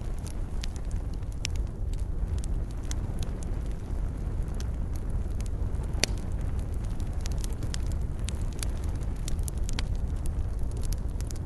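Campfire of burning wood crackling and popping at irregular moments over a low, steady rumble, with one sharper pop about halfway through.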